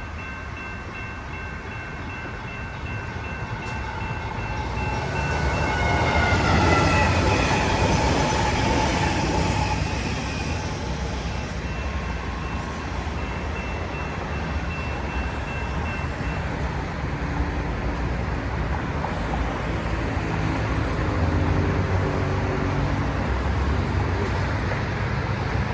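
A GS Type 1 electronic crossing bell rings steadily at a grade crossing as a train approaches and passes. About six seconds in, a train horn sounds with its pitch dropping as the train goes by. The train's rumble and rail noise peak there and then slowly fade, with the crossing bell still ringing.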